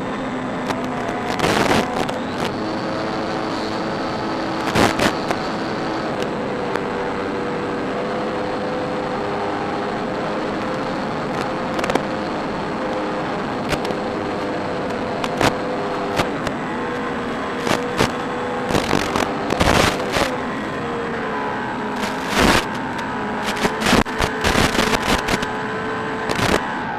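Electric motor and propeller of a Durafly Bf 109 E-4 RC model plane running in flight, a whine whose pitch drifts up and down with the throttle. Sharp crackles break in repeatedly, most thickly in the second half.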